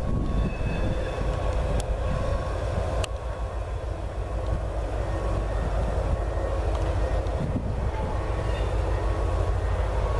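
Freight train of tank cars and CSX diesel locomotives rolling past with a steady low rumble; two faint sharp clicks sound about two and three seconds in.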